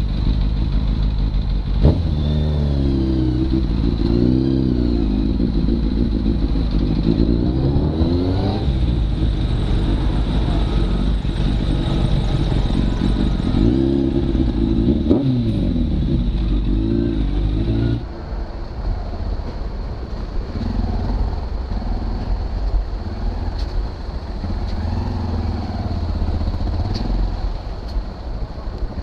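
Motorcycle engine running while riding, its pitch rising and falling over and over with throttle and gear changes. About two-thirds of the way through, the sound changes abruptly to a quieter, steadier engine note.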